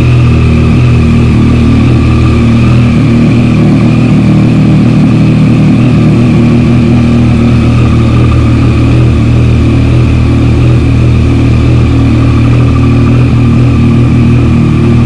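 Yamaha MT-09's three-cylinder engine idling steadily after a cold start, heard through an aftermarket Akrapovic Racing Line carbon exhaust.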